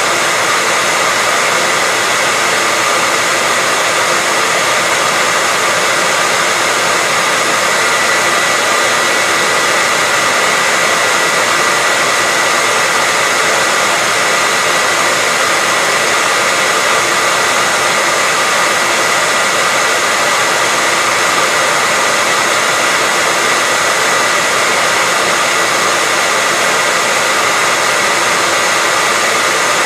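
Hair dryer running steadily: a constant airy rush with a faint whine near the top, no change in speed or level.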